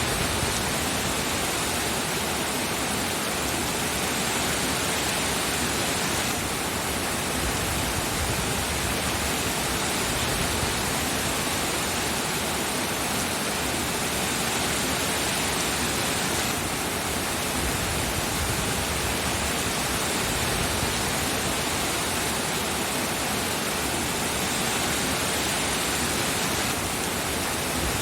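Steady heavy rain, an even hiss with no separate drops standing out, shifting slightly in texture about every ten seconds.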